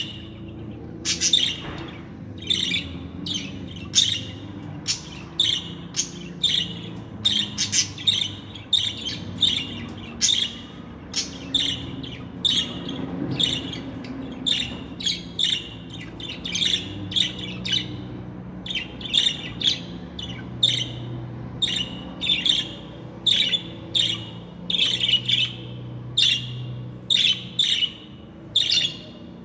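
Budgerigars chirping and squawking in short, sharp calls, one or two a second, over a faint low hum.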